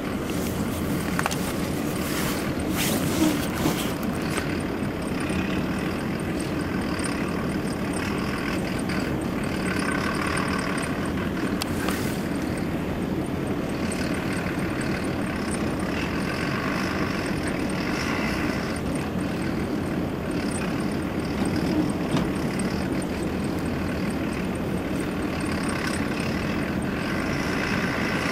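Steady engine and road drone inside the cab of a lifted Dodge Ram 1500 pickup on 35-inch mud-terrain tyres as it drives, with a few light knocks, two of them about three seconds in.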